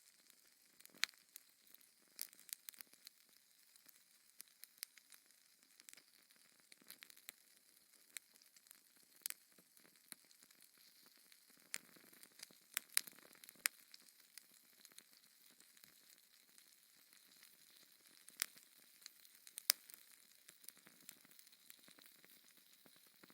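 Fire crackling in a fireplace: irregular sharp snaps and pops over a faint hiss, a few of them much louder than the rest.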